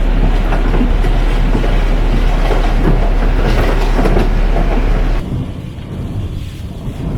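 Train running: a loud, steady rumble with rhythmic wheel clatter. About five seconds in it cuts off abruptly and quieter background noise takes over.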